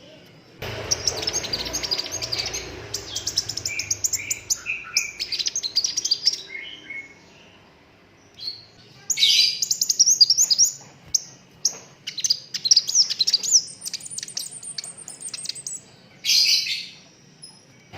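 Sunbird singing a fast, high-pitched song of rapid trills and sharp rattling notes in long bursts, with a short pause about halfway through.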